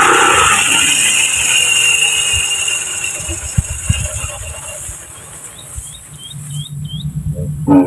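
A small engine, likely the grass cutter's, dies away at the start, leaving a quieter stretch with a couple of knocks and a run of about five short rising bird chirps. A brief loud pitched sound comes near the end.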